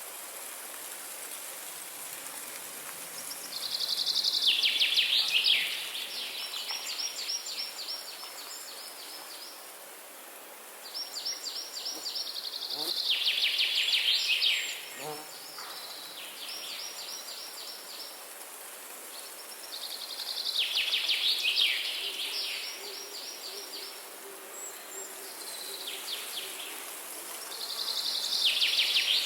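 A songbird singing a rapid trilled phrase over and over, four times, each one about two to three seconds long and dropping in pitch partway through, over a steady outdoor hiss.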